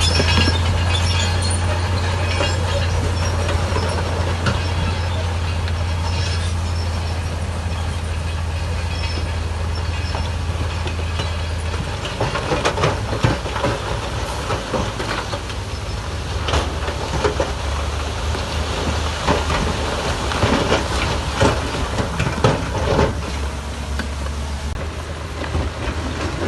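Heavy diesel earthmoving machinery running with a steady low drone. About halfway through, the drone weakens and changes, and many irregular clanks and knocks of metal and rock set in.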